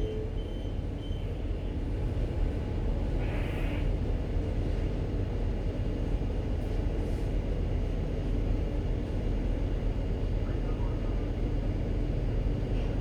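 Steady low rumble of a ship's engine and machinery during berthing, with a brief hiss about three and a half seconds in.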